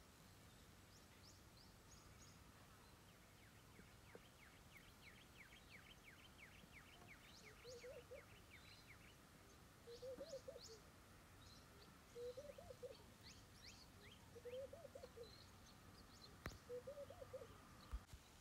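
Faint birds calling: a fast run of short chirps, high thin notes, and a low call repeated five times about every two seconds. A brief knock comes near the end.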